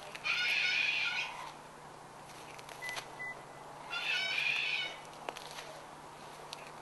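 Blue and gold macaw calling twice, each call about a second long and about three seconds apart.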